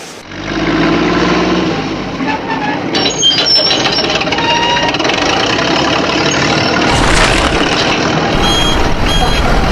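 Vehicle engine noise running steadily, with a repeating electronic beeping like a reversing alarm starting near the end.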